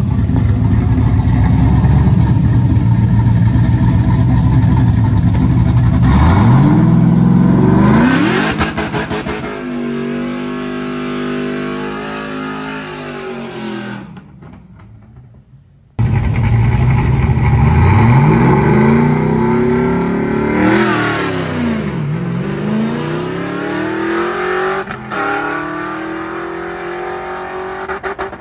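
Drag-racing car engines at full throttle: a loud engine runs at the line, then its revs climb in steps, dropping at each gear change as the car launches and pulls away, fading. After a sudden two-second gap, another hard launch follows with climbing revs and shifts, fading down the strip.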